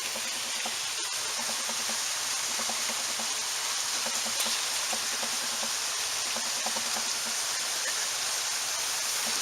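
Water of a small stream flowing steadily.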